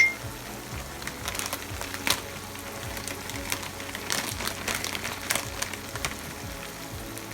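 Chicken and vegetables sautéing in oil and butter in a pan: scattered sharp clicks and crackles of frying, with a few louder pops around two seconds in and again around four to five seconds in.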